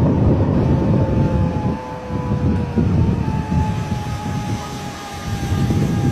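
An unexplained low rumble with a faint droning tone over it that slowly sinks in pitch: the strange noise heard on the beach at Santos.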